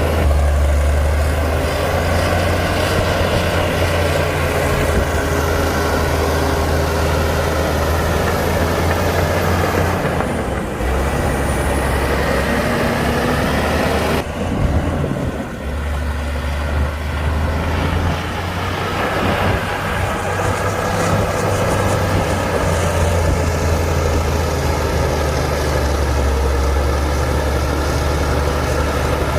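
Heavy diesel engine of earthmoving machinery running steadily with a deep drone, the sound dipping and shifting in pitch for a few seconds around the middle before settling back.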